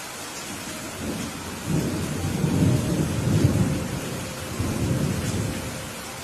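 Steady rain with a roll of thunder that builds about a second in, rumbles loudest in the middle, swells again briefly and dies away near the end.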